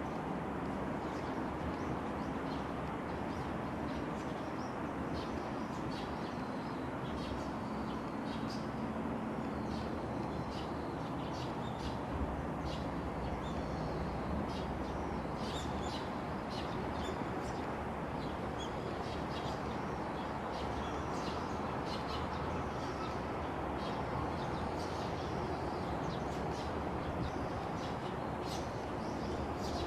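Birds chirping, many short high calls scattered throughout, over a steady low background rumble.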